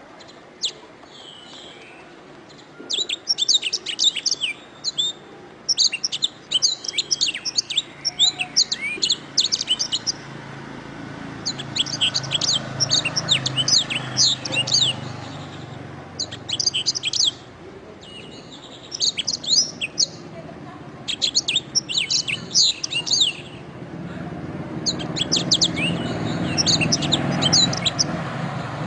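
Domestic canary singing: phrases of fast trills and warbles, each lasting one to three seconds, separated by short pauses. A low rumble rises in the background mid-way and again near the end.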